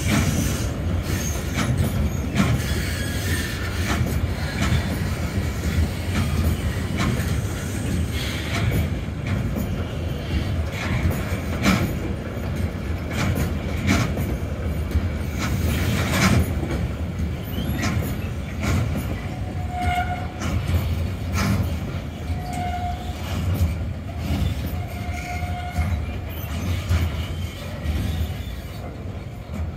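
Freight train of enclosed double-deck car-transporter wagons rolling past steadily. The wheels rumble and clack over the rail joints, with a few brief squeals in the second half.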